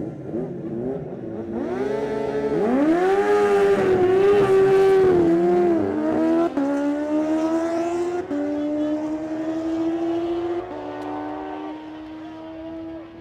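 Superbike drag launch: the engine revs high, then pulls away with its pitch climbing in steps, cut by four quick upshifts. It fades as the bike runs down the strip.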